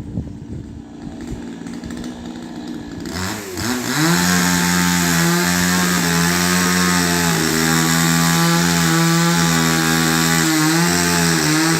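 Chainsaw engine that comes up to a loud, steady high speed about three seconds in and runs on, with a few brief dips in pitch.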